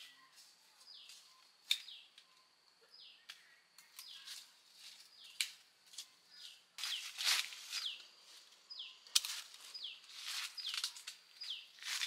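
A small bird repeats a short high chirp that falls in pitch, about once a second. Over it come bursts of rustling and crackling from branches, leaves and bagged guava fruit being handled and picked, loudest in the second half, with a sharp snap just after the ninth second.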